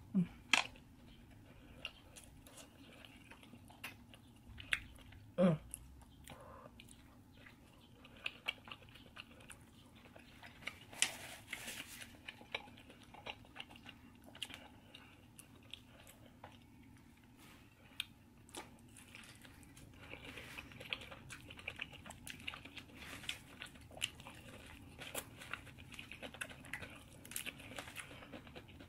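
Close-miked chewing and biting of crispy fried food, with many short crunches and crackles, thicker in the second half. A brief falling tone sounds near the start and again about five seconds in.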